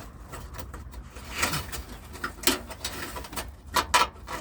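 A few sharp metallic clicks and light rattles from handling a thin aluminium shield and its screws under a car, strongest about halfway and near the end.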